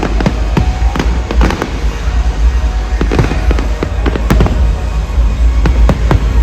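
Fireworks display going off: a dense run of bangs and crackles, several a second, over a continuous low rumble.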